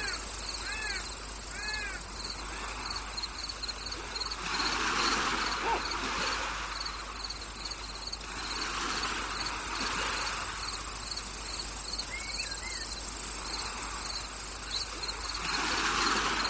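Night insect chorus of crickets: a steady high trill with a row of quick repeated chirps, and a few short rising-and-falling calls near the start and again about twelve seconds in. A soft hushing sound swells and fades every few seconds beneath it.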